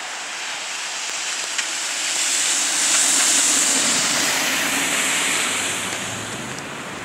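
A road vehicle driving past on a wet, snowy road: tyre hiss swells, peaks with a low engine rumble beneath it, and fades away.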